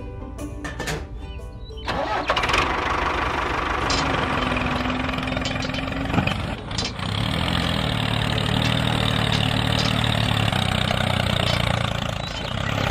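Music for the first two seconds, then a vehicle engine starts suddenly with a burst of noise and keeps running, settling into a steady low running sound from about seven seconds in.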